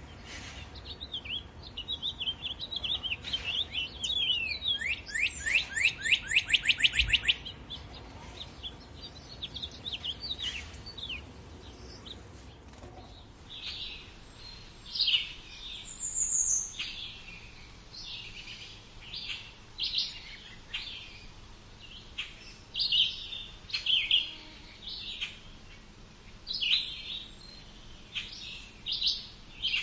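Several wild birds singing. For the first seven seconds a bird repeats quick falling notes in fast runs; after that, shorter scattered chirps and calls come from a few birds at once.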